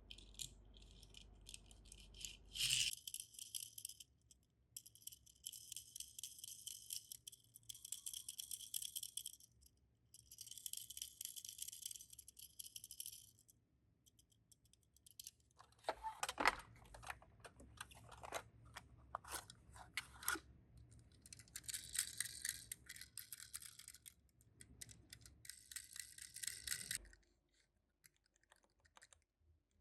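Tomica die-cast minicars being rummaged through in a storage case: bursts of rapid rattling and clicking, with a run of sharper knocks over the middle, then stopping near the end.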